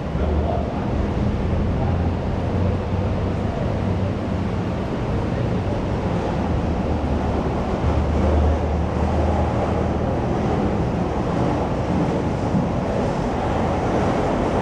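School canteen ambience: a steady wash of many indistinct voices and room noise, with no single voice or clatter standing out.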